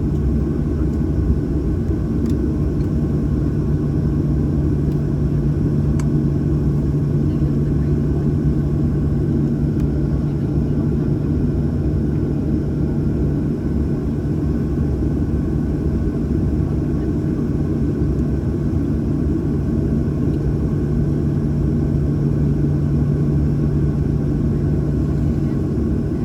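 Steady cabin drone of a Boeing 737-800 with its CFM56-7B engines running, a constant low hum that holds the same pitch.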